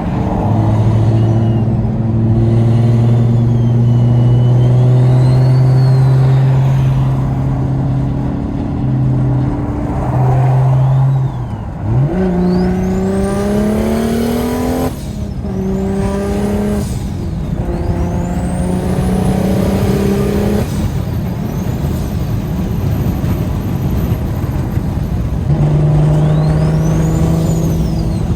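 BMW N54 inline-six with a DocRace single-turbo conversion and a straight-pipe exhaust, heard from inside the cabin: a steady drone while cruising, then from about halfway through several hard pulls, each with the engine note and a high turbo whistle rising together until they cut off at a gear change. One more pull with a rising-and-falling whistle comes near the end.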